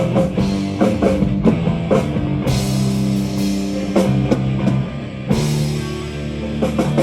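Live metal band playing an instrumental passage with no vocals: distorted electric guitars and bass holding chords over a drum kit.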